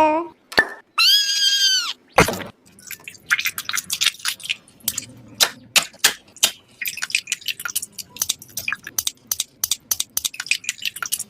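Many quick, irregular clicks and taps of small hard objects, as of toys being handled, after a short held tone and a single sharp knock near the start.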